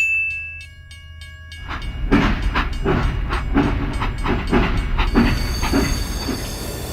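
A sharp short tone, then a loud mechanical rumbling that starts about a second and a half in and beats regularly two to three times a second.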